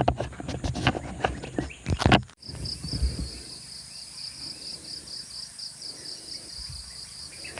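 Rustling, scraping handling noise with many small clicks for about two seconds, cut off abruptly. After that an insect chirps steadily in a rapid, high-pitched pulse over a faint outdoor hiss.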